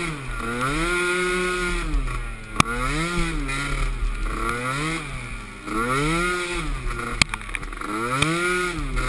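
Small youth racing ATV engine revving up and easing off over and over, its pitch rising and falling every second or two, with a few sharp clicks about seven seconds in.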